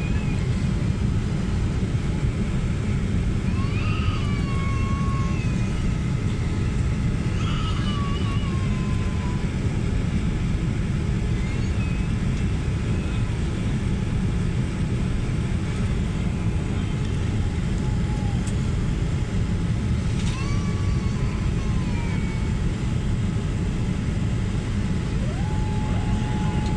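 Steady rumble of an airliner's cabin noise on the landing approach, the engine and airflow noise unbroken and even throughout.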